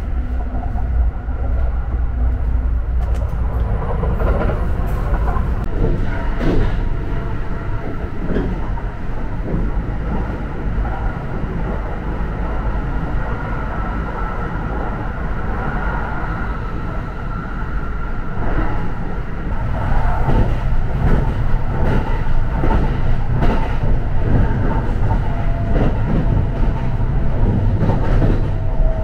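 Running noise of a Kintetsu Hinotori (80000 series) electric express train heard from inside the car: a steady rumble with irregular clicks and knocks from the wheels and track, and a faint steady high tone. The rumble grows louder about two-thirds of the way through.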